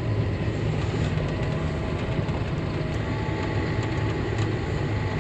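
Semi truck's diesel engine running steadily, a low even hum heard from inside the cab.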